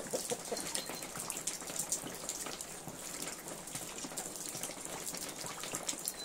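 Water running and splashing steadily, with many quick sharp drips and spatters.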